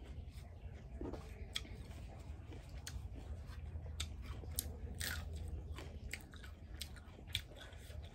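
A person chewing and biting food close to the microphone: irregular wet mouth clicks and small crunches over a low steady hum.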